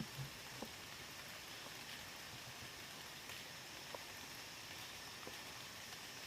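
Faint steady hiss with a few scattered soft ticks and taps.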